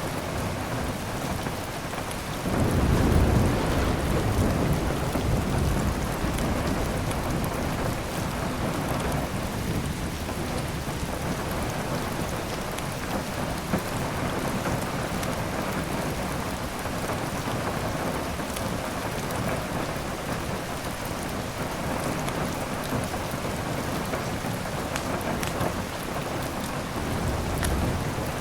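Steady heavy rain with rolling thunder: a low rumble swells about two and a half seconds in and fades away over several seconds, and another begins building near the end.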